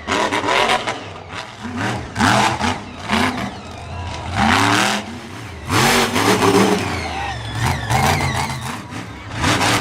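Monster truck engine revving hard over and over, its pitch climbing in repeated sweeps, with short bursts of loud noise between the revs.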